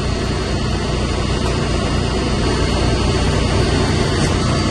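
Steady drone of running machinery in a chiller plant room, with a low hum and a thin high whine held steady throughout: the plant's pumps running.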